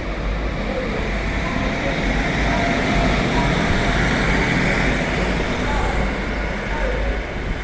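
Class 150 Sprinter diesel multiple unit pulling away from the platform, its underfloor diesel engines running under power in a steady, continuous rumble that swells slightly midway.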